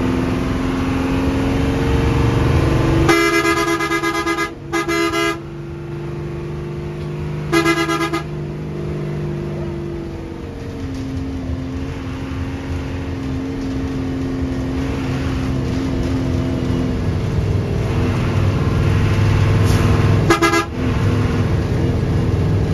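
Hino 1J bus running along the road with a steady engine drone whose pitch shifts about halfway through. Horn blasts sound four times: a long one about three seconds in, a short one just after, another near eight seconds, and a brief one near the end.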